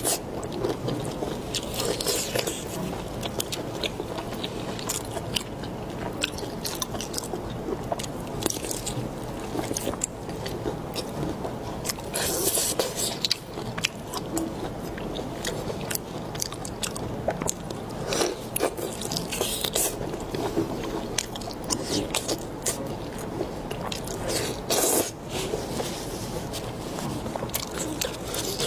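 Close-miked eating: a person biting and chewing food, with many sharp clicks and wet crunches and a few louder crunches scattered through.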